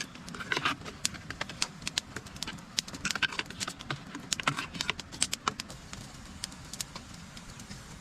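Irregular sharp clicks and taps, a few to several a second, bunching into quick clusters now and then, over a steady low background noise.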